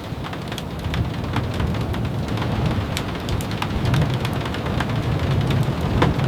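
Steady rain falling, with a low rumble underneath and many scattered sharp ticks and taps.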